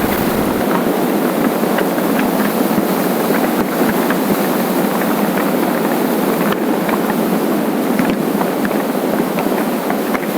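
Steady rush of wind and engine noise from a motorcycle riding along at speed.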